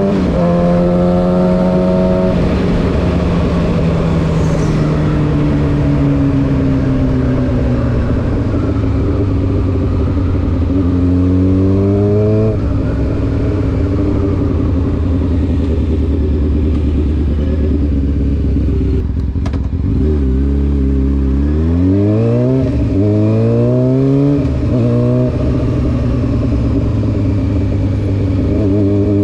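Honda CBR600F4 inline-four motorcycle engine through an SC Project aftermarket exhaust, under way. The revs ease off, rise briefly about ten seconds in, then hold low and steady. A little past the middle comes a run of quick rising revs broken by gear changes, before it settles into steady running near the end.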